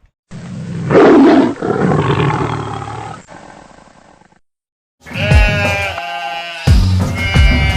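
A large animal's roar, loudest about a second in and fading away over about three seconds. After a brief silence, a drawn-out mooing call begins over music with a steady beat.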